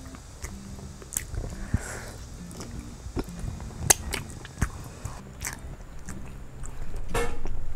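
Close-miked chewing and biting of braised chicken, with scattered sharp clicks and mouth sounds that grow louder near the end.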